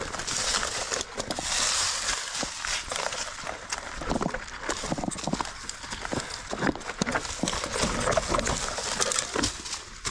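Mountain bike rolling over a rocky trail: tyres crunching over stones, with a steady run of irregular knocks and rattles from the bike.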